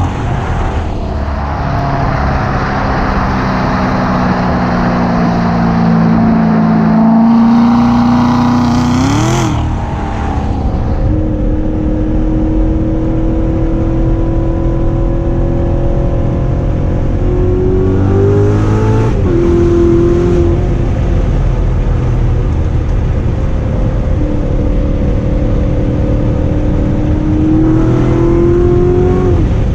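2016 Corvette Z06's supercharged 6.2-litre V8 running under way. Its note climbs slowly, then three times, about nine or ten seconds apart, briefly rises and drops sharply in pitch, over a steady rush of road noise.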